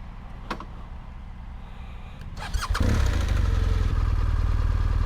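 BMW GS motorcycle engine started about halfway through, catching and settling into a steady idle; a short click comes just before it, about half a second in.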